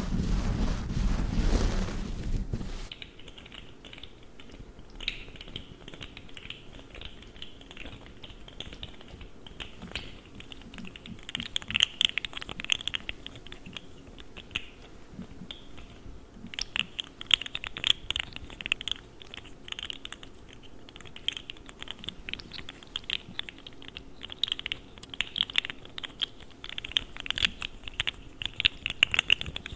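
A loud, low rubbing rush from white gloves stops about three seconds in. After that a plastic fidget slug toy is handled close to the microphone, and its jointed segments make quick, irregular clicks and clatters that come in clusters.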